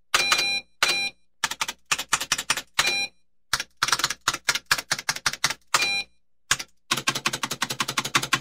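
Keys struck hard and fast in short bursts of typing separated by brief pauses, with short beeps sounding over several of the bursts; a longer unbroken run of keystrokes comes near the end.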